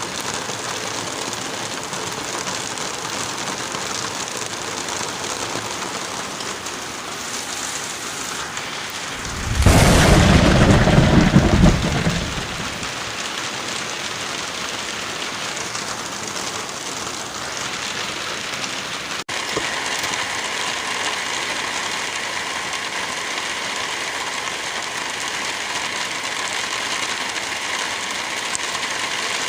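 Steady heavy rain, with a loud thunderclap about ten seconds in that rumbles for about three seconds before the rain carries on alone.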